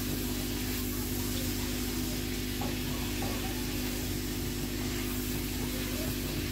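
Chicken liver and pota with tomatoes sizzling steadily in a nonstick wok as a silicone spatula stirs them, over a steady low hum.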